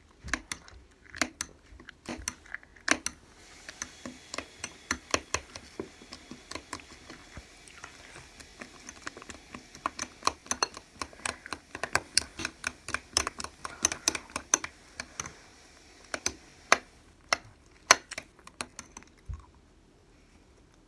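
Irregular series of sharp clicks and taps, several a second, thinning out and stopping about a second before the end.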